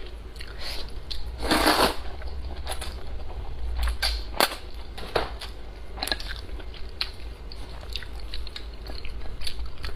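Close-miked eating: a person slurping and chewing cold-dressed fern-root noodles, with many small wet clicks and a louder slurping rush about a second and a half in.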